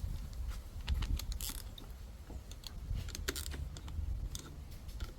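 Light, scattered clicks and taps of small metal parts and tools being handled, over a low steady hum.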